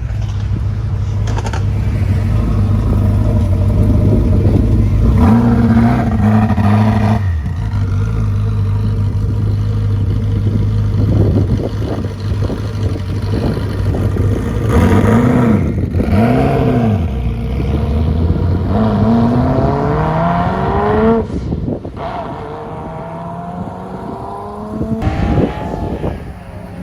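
High-performance sports car engine revving: a steady idle drone with a short blip, then two quick rev blips, a long climb in revs that cuts off suddenly, and one more short rev near the end.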